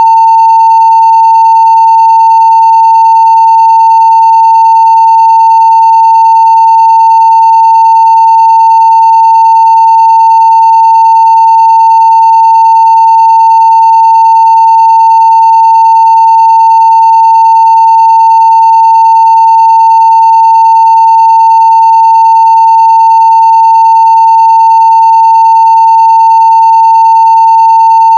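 A steady 900 Hz sine-wave test tone at 0 dB full scale, held without a break at one pitch, with faint higher overtones.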